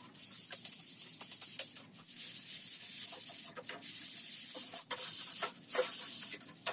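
Sandpaper rubbing along a thin wooden strip to smooth it. It goes in repeated strokes with a few brief pauses.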